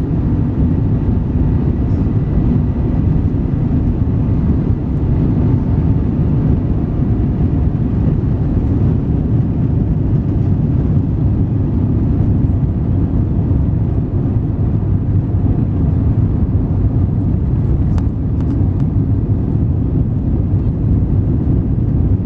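Steady low roar of an Airbus A350-900's Rolls-Royce Trent XWB engines and the rushing air, heard from inside the passenger cabin, with a few faint clicks near the end.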